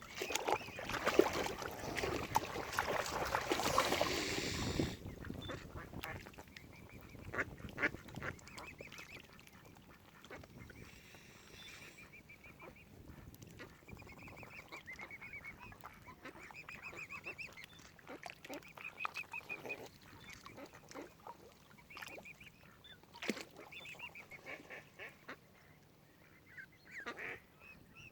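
Waterfowl calling: many short, repeated calls that come in loose runs, after a loud rushing noise in the first five seconds.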